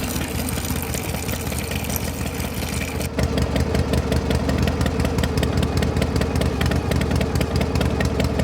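A small motor-driven machine running steadily. About three seconds in the sound changes abruptly and becomes louder, with fast, evenly spaced clicking over a low hum.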